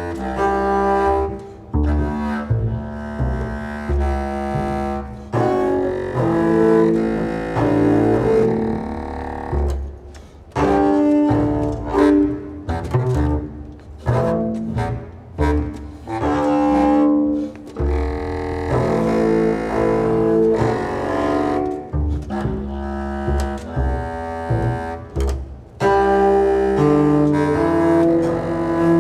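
Contemporary chamber music for clarinet and double bass. Held pitched notes lasting a second or two follow one another, broken by several brief pauses.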